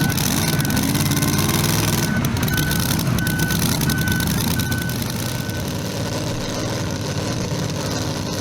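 A heavy vehicle engine running steadily while a backup alarm beeps at one high pitch about every two-thirds of a second. The beeping stops about five and a half seconds in.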